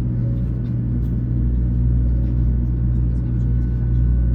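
Steady low rumble of a Shinkansen bullet train running at speed, heard from inside the passenger cabin, with faint small clicks over it.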